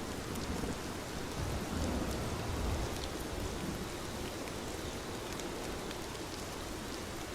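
Steady rain falling, with scattered drop ticks. A low rumble of thunder swells and fades about one and a half to three seconds in.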